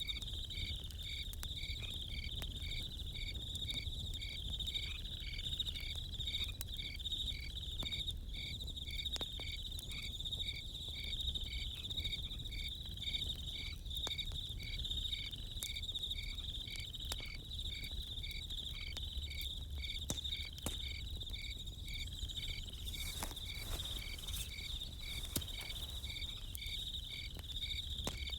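Crickets chirping steadily, an even pulsing chirp under a continuous high trill, over scattered sharp crackles of a campfire that come thickest a little after two-thirds of the way through, with a low rumble underneath.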